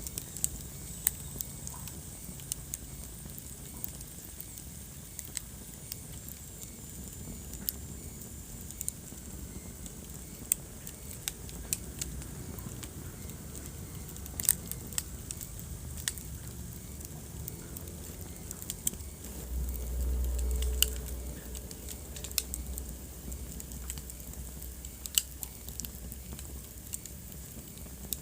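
Wood fire crackling in a fireplace: irregular sharp pops and snaps over a steady low rumble, which swells louder for a couple of seconds about two-thirds of the way through.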